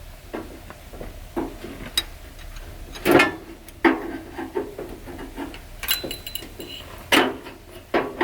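Irregular metallic clinks and knocks of hand tools against metal engine parts, a few with a brief ringing after them.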